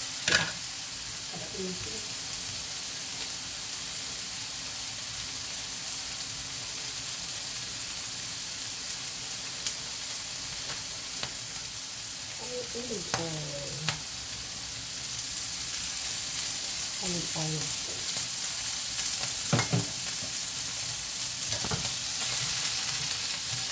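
Chunks of fatty meat sizzling in oil in a nonstick frying pan over a gas flame, a steady hiss. Wooden chopsticks knock sharply against the pan or board just after the start and a couple of times near the end.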